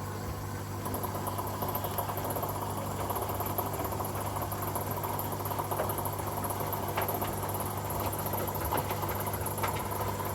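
Front-loading washing machine mid-wash: a steady motor hum under the sound of water spraying and splashing onto the wet clothes as the drum turns, getting busier about a second in, with small scattered ticks.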